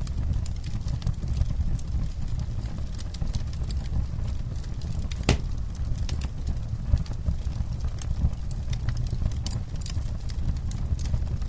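Wood campfire crackling, with many sharp pops over a steady low rumble; one louder pop about five seconds in.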